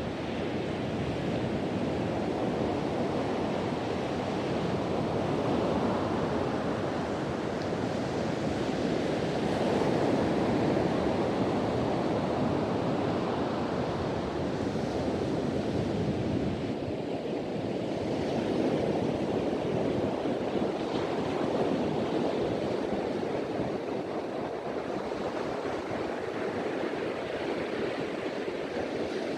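Ocean waves breaking and washing on a beach, a continuous surf that swells and eases every few seconds, with wind in the background.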